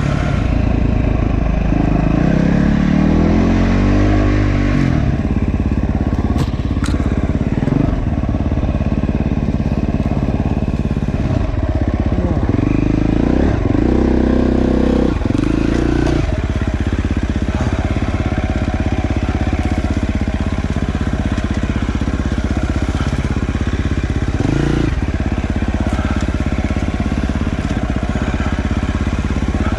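Dirt bike engine running under load, its revs rising and falling several times as the rider works the throttle, with a few sharp clicks about six or seven seconds in.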